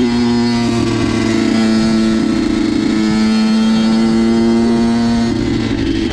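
Honda CR85's two-stroke single-cylinder engine running at high, steady revs while riding. Near the end the engine note breaks off briefly and the revs dip.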